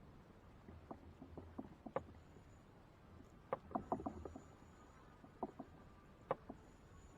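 Scattered light knocks and clicks, some in quick clusters, of gear being handled in a fishing kayak, with hard objects tapping the hull.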